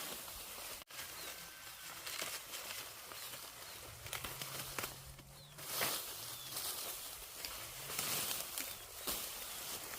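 Rustling and crackling of corn plants being handled during a hand corn harvest, in irregular bursts, with a faint low drone underneath for much of the time.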